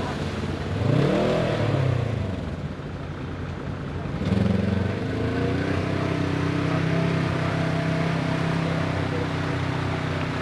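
Dirt bike's single-cylinder engine revving up and dropping back about a second in, then running at a steady pitch from about four seconds in.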